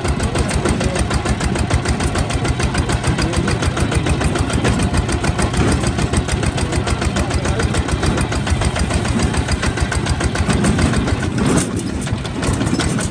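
Kubota ZT155 single-cylinder diesel engine on a walking tractor, running steadily with a fast, even chugging beat. The sound dips briefly near the end.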